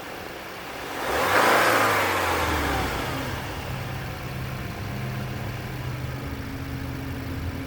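2018 Audi A5 Coupe's turbocharged 2.0-litre four-cylinder engine blipped once about a second in, rising and falling back, then settling to a steady idle.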